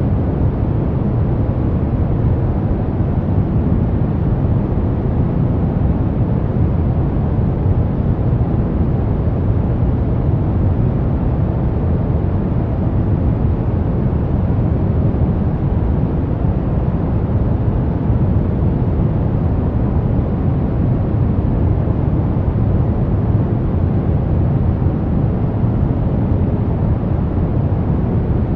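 Brown noise: a steady, unchanging deep hiss, much stronger in the bass than in the treble.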